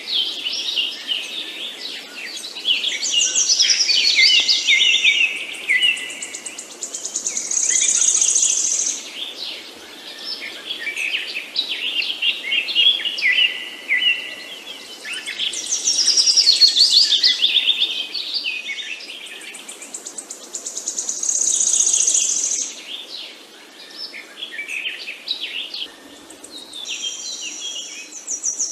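Several songbirds chirping and singing together, overlapping short calls and fast trills that swell and fade in waves. Much the same stretch of song comes round again about every thirteen seconds.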